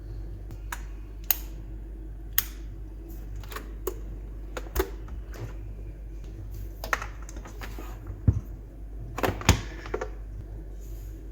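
A series of irregular light clicks and knocks, about a dozen in all and unevenly spaced, the loudest near the end, over a steady low hum.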